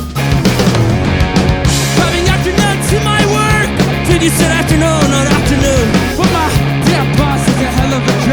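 Three-piece punk band playing a fast song live: distorted electric guitar, bass guitar and drums, loud and dense throughout.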